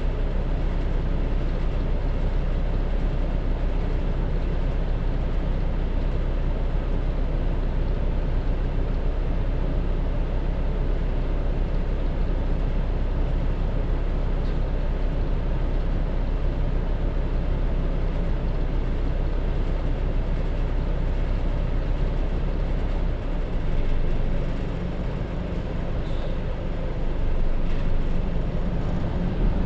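Hino Rainbow HR city bus with a J07E diesel engine and DD5M gearbox running along, engine and road noise steady. About 23 seconds in the engine's low rumble eases off, and a few short clicks follow near the end.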